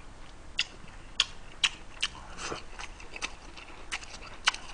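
Close-miked chewing, a person eating with the mouth making sharp, wet clicks at irregular intervals, a little under two a second.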